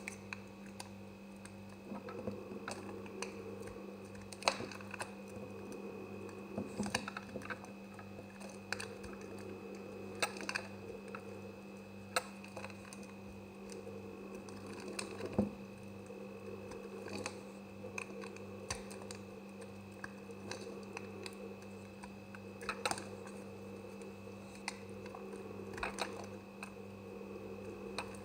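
A blade cutting through semi-dry soap: irregular, crisp clicks and crackles, a few louder than the rest, over a steady low hum.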